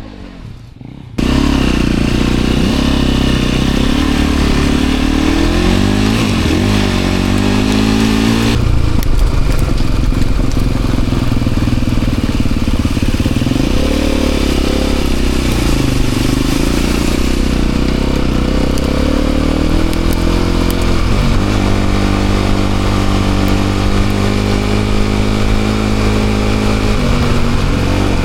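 Enduro dirt bike engine running hard off-road, its pitch rising and falling again and again as the throttle is worked. The sound cuts in suddenly about a second in.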